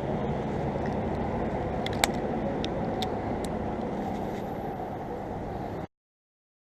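Steady rush of a shallow river's flowing water, with a few light clicks and one sharp tap about two seconds in. The sound cuts off abruptly near the end.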